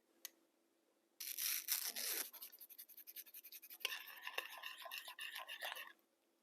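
A brief swish, then a long run of rapid scraping strokes of a utensil in a bowl as the cake ingredients are mixed.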